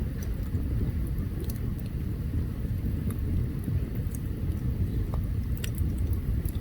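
Open campfire burning: a steady low rumble with scattered sharp crackles and pops of burning wood.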